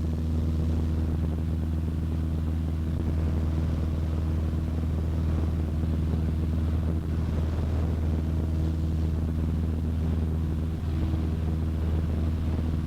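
Cessna 152's four-cylinder Lycoming O-235 engine and propeller running steadily: an even, low drone that does not change in pitch.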